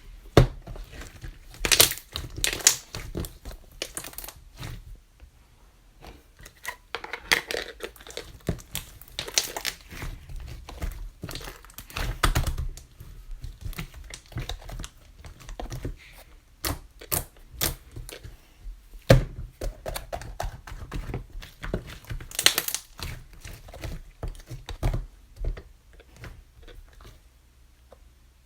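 Rainbow slime being squished and stretched by hand, making irregular sticky clicks, crackles and soft pops, with a quieter stretch near the end.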